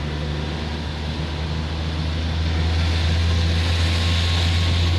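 A car driving on a rain-wet road: a steady low drone of engine and road noise, with tyre hiss that swells louder from about halfway through.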